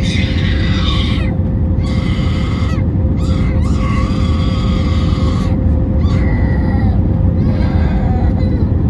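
Steady low rumble of engine and airflow in the cabin of an Airbus A320neo in flight, with a steady hum. Over it comes a string of high, wavering, wailing cries, each lasting up to about two seconds.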